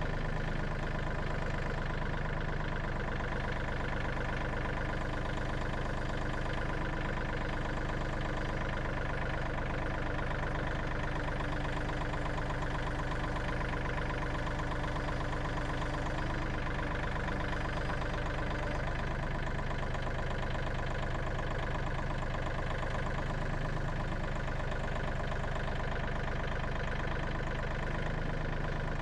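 An engine idling steadily at constant speed.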